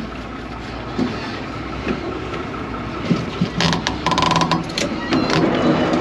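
Vaporetto water bus engine running with a steady low hum. A little past halfway comes a sharp knock, then loud metallic rattling and clattering.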